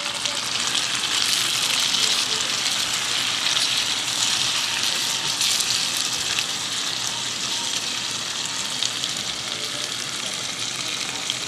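Chayote strips and sardines sizzling in oil and sauce in a frying pan: a steady crackling hiss full of fine pops.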